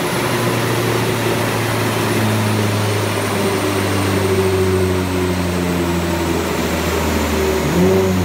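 Mitsubishi Lancer Evolution X's turbocharged 2.0-litre four-cylinder, fitted with a BorgWarner EFR 7163 turbo, running on a chassis dyno with the rollers. The pitch falls slowly as it winds down and a faint high whistle sinks with it. Near the end there is a brief rise in pitch and a louder moment.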